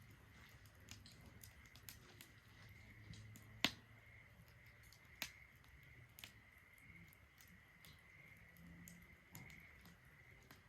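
Wood fire burning in a Solo Stove Ranger fire pit, crackling faintly with scattered small pops and snaps. The loudest snap comes a little past three and a half seconds in, and another sharp one about five seconds in.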